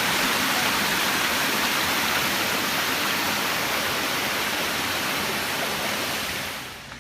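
Steady rushing of water falling or running over rocks, a dense even hiss that drops away suddenly near the end.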